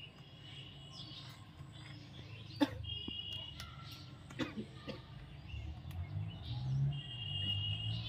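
Bird calls: a short, steady high whistle about three seconds in and a longer one near the end, with faint chirps, a few sharp clicks and a low rumbling background.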